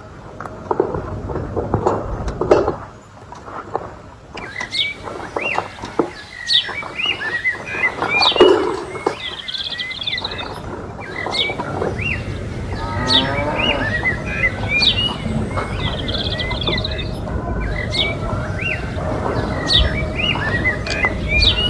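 Small birds chirping over and over, short repeated calls, above a steady low rumble.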